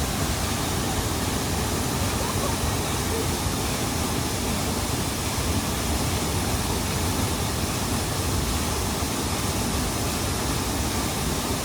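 Waterfall: a steady, unbroken rush of falling water close to the microphone.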